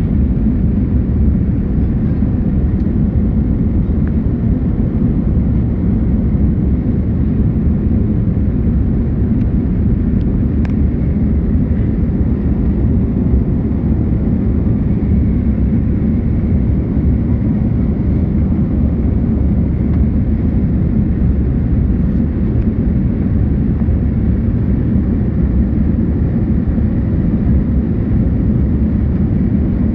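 Airbus A310's jet engines and rushing air during takeoff: a loud, steady, low rumble that stays even throughout.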